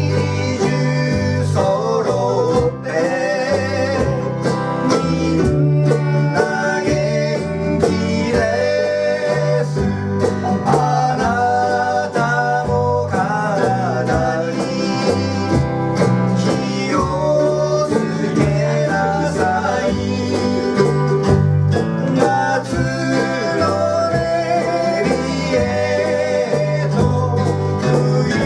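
Live acoustic band music: strummed and picked guitar over a steady walking bass line, with a melody line that bends and wavers in the middle register.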